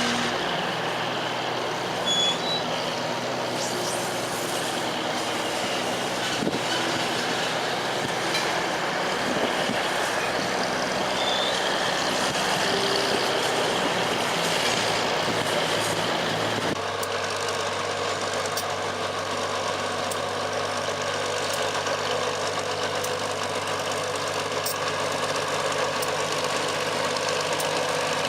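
Diesel engine sound of a 45-ton switcher locomotive, running steadily under way. About 17 s in the engine note changes abruptly to a different, deeper steady drone, with faint light ticks over it.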